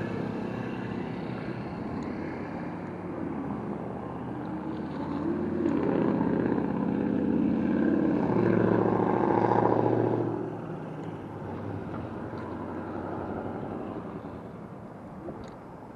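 Road traffic: a motor vehicle's engine passes close by, swelling to its loudest between about six and ten seconds in and then fading, over a steady hum of road and wind noise.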